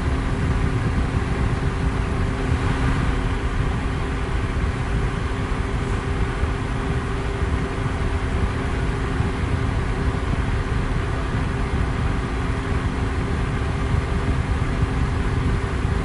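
Electric fan running steadily: an even rushing noise, heaviest in the low end, with a faint steady hum underneath.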